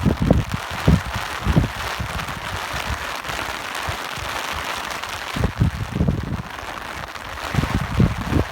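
Steady rain hissing, with gusts of wind coming and going as low rumbles, stronger near the start and again in the last few seconds.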